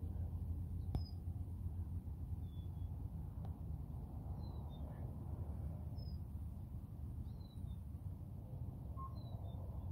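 Small birds giving short, high chirps every second or so, some dipping slightly in pitch, over a steady low background rumble.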